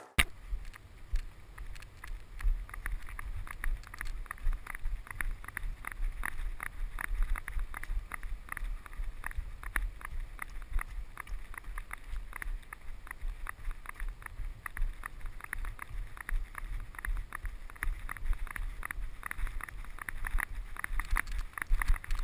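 A hiker's footsteps crunching along a trail, a steady run of short irregular steps, with a low wind rumble on the microphone.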